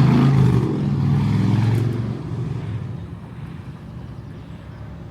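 A vehicle engine running as it moves off and fades away over about three seconds.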